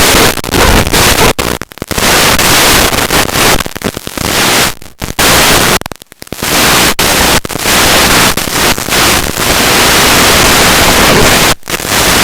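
Loud, steady static hiss, even across all pitches, that cuts out briefly several times, typical of the sound track of an analog FPV video link from a model plane in flight.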